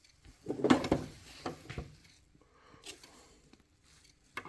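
Handling noises from work on a combi boiler's water sensor: a cluster of knocks and rustling about half a second in, then a few lighter clicks.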